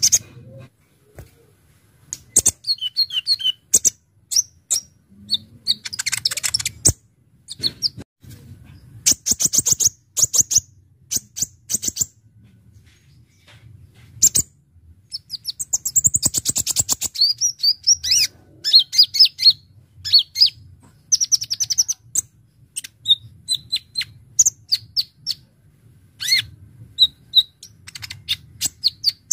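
Kolibri ninja (konin) sunbird singing a fast, busy song: bursts of rapid, very high, sharp chips and trills, broken by short pauses.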